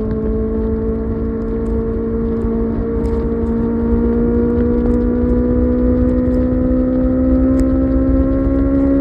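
Kawasaki ZX-6R's inline-four engine running at steady high revs on the highway, its note rising slowly and getting a little louder as the bike gradually gathers speed, over a low rush of wind.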